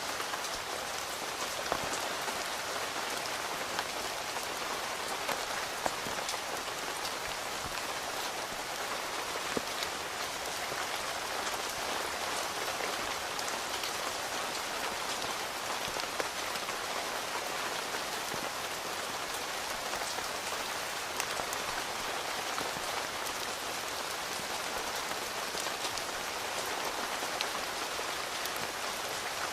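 Steady rain falling on a tent, heard from inside, with scattered louder single drops striking here and there.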